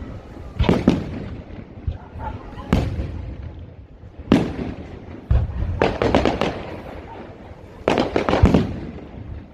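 Fireworks going off: separate sharp bangs every second or two, then quick clusters of crackling reports around the middle and again near the end.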